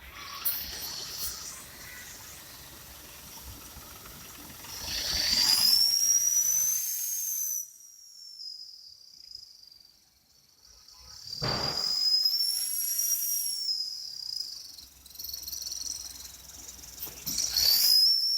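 Aftermarket turbo whistle fitted in a vehicle's exhaust, whistling high each time the engine is revved, the pitch rising and falling with the throttle, three times, over the engine and road noise of the vehicle driving round.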